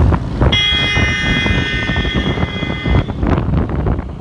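Tractor diesel engines running with a loud, dense low rumble. From about half a second in until about three seconds, a steady high multi-note tone like a vehicle horn sounds over it, then cuts off.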